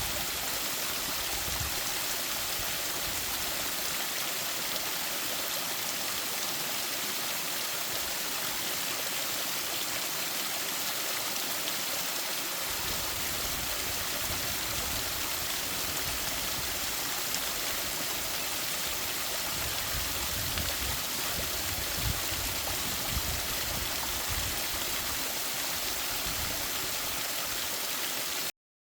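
Mountain stream running steadily over rocks, a constant rushing of water, which cuts off abruptly near the end.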